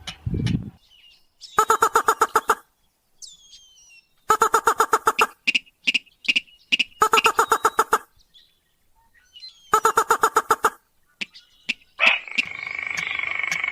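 Crake lure-call recording (sintar): four bursts of rapid repeated notes, each about a second long, with a few short higher notes between them. Near the end a different, longer, harsh drawn-out call starts and runs on.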